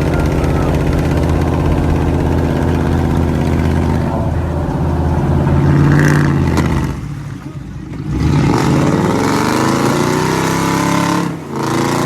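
Pickup truck engine running steadily, dropping off about seven seconds in, then revving up again with rising pitch.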